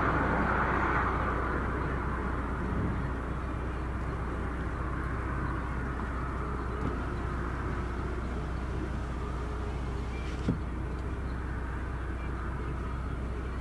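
Car engine running steadily with a low hum, and a single short click about ten and a half seconds in.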